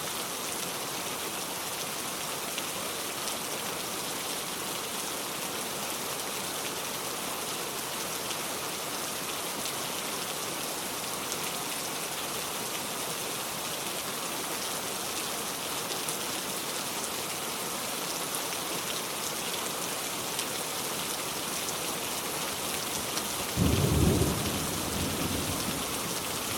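Steady rain falling, with a low rumble of thunder near the end.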